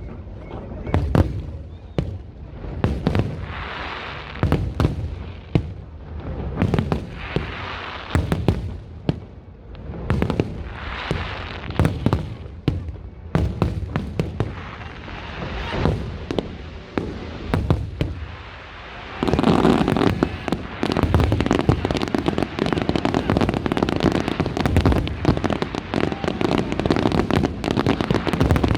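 Aerial fireworks bursting: separate booms, roughly one or two a second, with crackle between them. About two-thirds in, this gives way to a dense, continuous barrage of rapid bangs and crackling.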